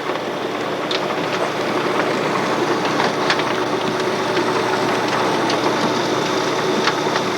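Farm machinery running steadily: a constant mechanical hum with a few held tones, scattered clicks and knocks, growing slightly louder.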